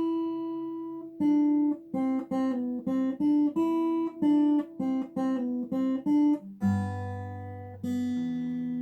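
Acoustic guitar picking a melody in A minor on the top two strings: about a dozen short plucked notes, starting on the open high E string. About two-thirds through, a low bass note is plucked together with a treble note, and both ring on.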